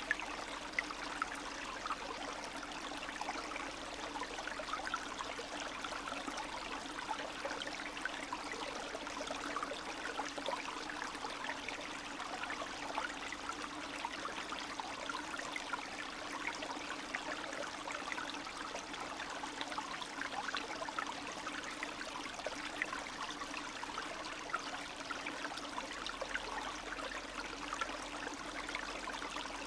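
A small spring stream flowing steadily, with a continuous trickling and bubbling of water.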